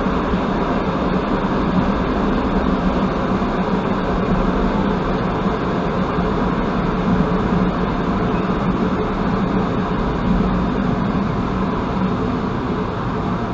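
Steady rolling noise of a passenger railcar running on the track, heard from inside the carriage.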